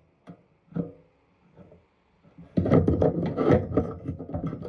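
Hands handling and fitting small parts: two light knocks in the first second, then from about two and a half seconds in a loud stretch of scraping and rubbing.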